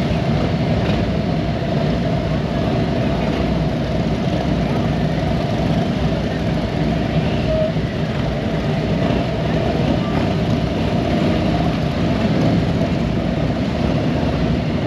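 Several police motorcycle engines running steadily together as the officers ride out in a group, with voices in the background.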